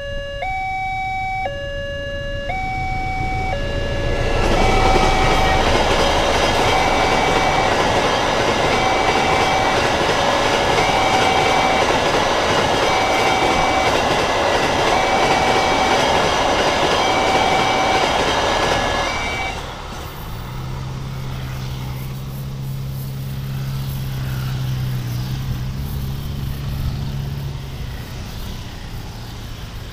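Railway level-crossing warning chime, two electronic tones alternating about once a second. From about four seconds in, a train passes at speed, a loud rush of rail noise for some fifteen seconds. About twenty seconds in the chime stops and the low, steady running of road-vehicle engines takes over as traffic moves across.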